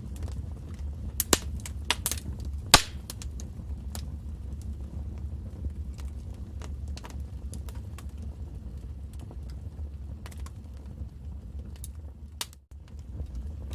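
Wood fire crackling in a fireplace: irregular sharp pops and snaps over a steady low rumble, the loudest pops coming a couple of seconds in. The sound cuts out for a moment near the end.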